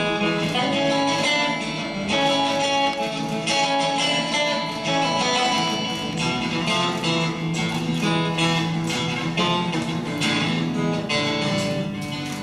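Guitar playing an instrumental passage, plucked and strummed chords changing about every second.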